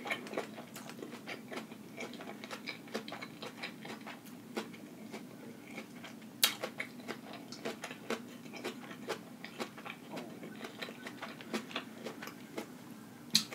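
Close-miked chewing of a lettuce-wrapped veggie burger: many small, irregular wet mouth clicks and smacks, with a sharper click about six and a half seconds in.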